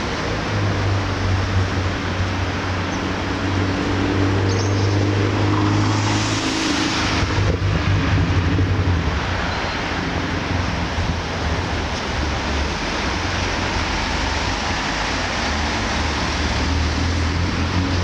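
Road vehicle engine and tyre noise: a steady low engine hum under a constant rush of road noise, with a brief louder swell of noise about six seconds in.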